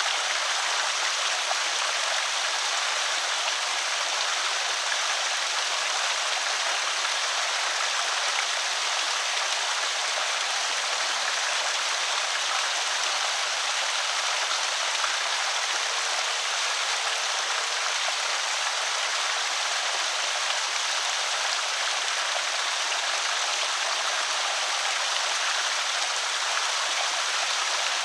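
Water trickling and splashing steadily over a small creek spillway, a continuous even rush.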